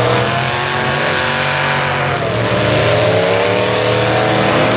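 Demolition-derby full-size truck engine running hard at high revs. Its pitch dips a little past two seconds in, then climbs back as it revs up again.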